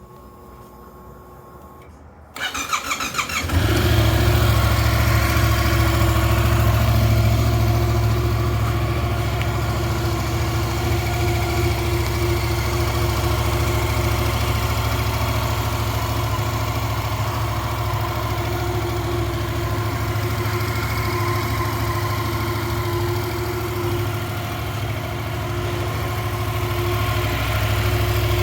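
Yamaha FZ-07's 689 cc parallel-twin engine started: the electric starter cranks briefly about two seconds in, the engine catches and then idles steadily, a little louder in the first few seconds after it fires.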